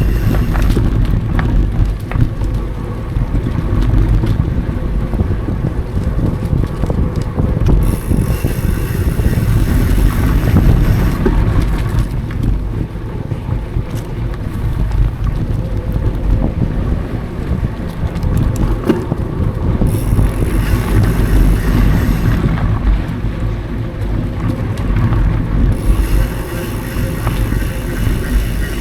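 Wind buffeting the microphone of a DJI Action 4 action camera on a moving mountain bike, over a steady low rumble from the tyres on dry, smooth singletrack. Scattered clicks and rattles from the bike run through it.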